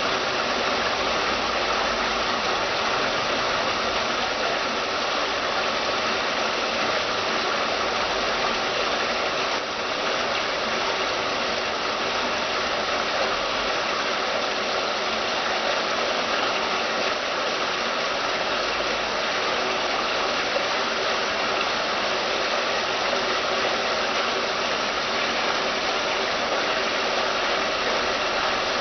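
Water splashing steadily down the tiers of a stainless-steel stepped cascade fountain, an even rushing noise with no change in level.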